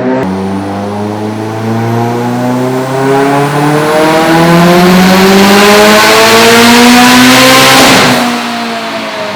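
Mitsubishi Evo X's turbocharged 2.0-litre four-cylinder, fitted with a Precision 6466 twin-scroll turbo, on a full-throttle dyno pull: the engine note climbs steadily in pitch with a growing turbo hiss. About eight seconds in the throttle closes with a short burst of noise and the revs fall away.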